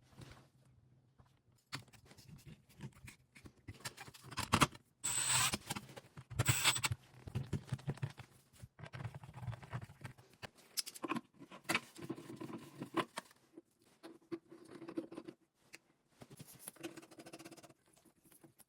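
Close hand work on a Delta Monitor faucet cartridge: irregular small clicks, taps and scrapes of parts being handled. There are a couple of louder stretches of rubbing about five to seven seconds in.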